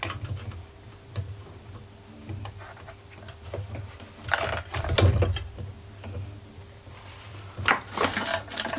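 Ratchet wrench clicking and metal parts clinking as a small generator's exhaust muffler is fastened with 8mm screws. The clicks come in scattered runs, loudest in two bursts midway and near the end, over a steady low hum.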